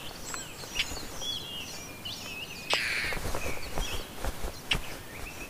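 Songbirds twittering in the background, with one harsh call from a European roller about three seconds in.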